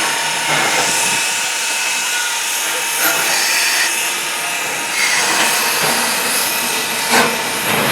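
Steam locomotive venting steam with a steady hiss, plus a single sharp knock about seven seconds in.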